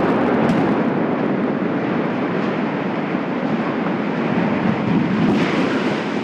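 Loud, continuous rumble of a rocket engine test stand collapsing and its debris coming down just after the demolition charges fire, slowly fading, with a sharper crash about five seconds in.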